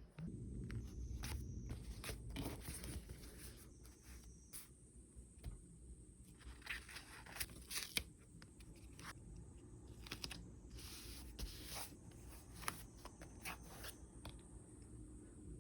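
Faint handling noise of stickers and packaging: a string of short, irregular crinkles, scrapes and tearing sounds, some of them sharp little clicks.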